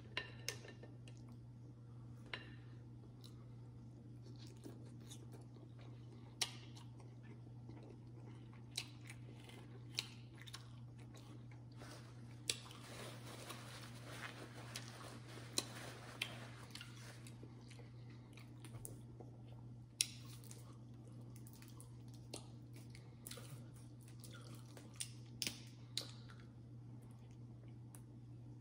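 Close-miked eating sounds of a person eating a seafood boil with her hands: chewing with scattered sharp smacks and clicks, over a steady low hum.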